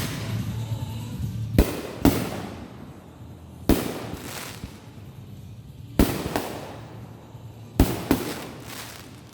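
Backyard consumer fireworks going off: about six sharp bangs spread over nine seconds, two of them in quick pairs, each trailing off in a crackling echo.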